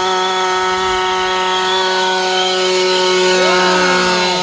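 Small two-stroke gas engine of a 1/5-scale RC truck running at high revs, held at a steady pitch.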